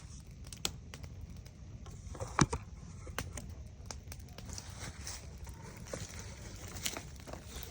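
Campfire crackling: irregular sharp pops and snaps over a low steady rumble, the loudest crack about two and a half seconds in.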